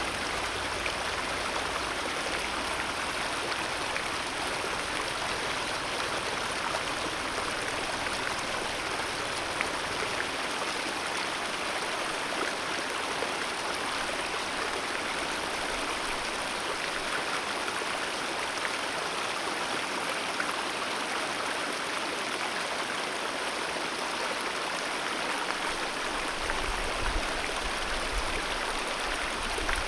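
Alpine mountain river flowing steadily, a constant even rush of water.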